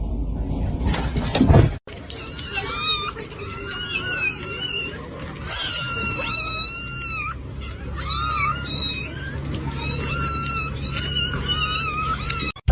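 A cat meowing over and over in short, high calls for about ten seconds. It follows a brief burst of noise that cuts off about two seconds in.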